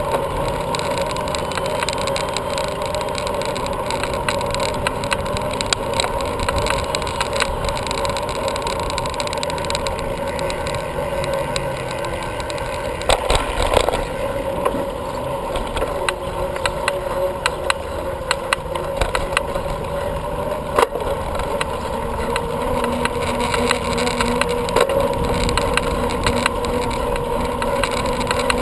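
Bicycle riding noise: steady tyre and wind noise with frequent small clicks and rattles from the bike. There is a louder knock about halfway through and another a little later.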